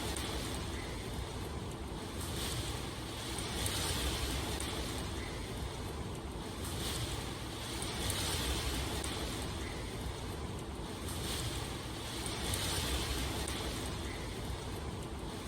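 Steady rushing water ambience with a low rumble underneath, swelling in a regular pulse about every two seconds.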